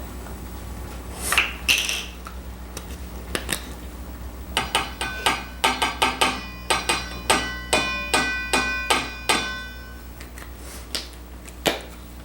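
A metal spoon knocking and clinking against a mixing bowl: a run of sharp strikes, about two a second, each leaving a brief ring, while dry mustard goes into a marinade.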